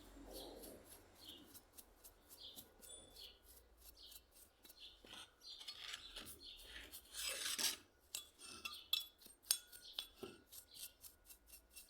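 Metal parts of a hand plane being handled and worked, with scattered light clicks and clinks and a louder scraping stroke about seven seconds in.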